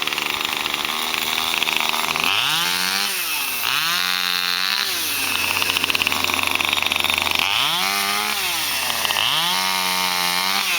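Chainsaw running and cutting into the wood of a fallen peppermint tree, its engine revved up and dropping back four times in two pairs.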